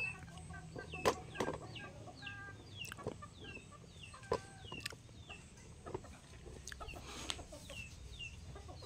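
Faint chickens calling: a steady run of short, falling chirps, about two a second, with a few sharp clicks in between.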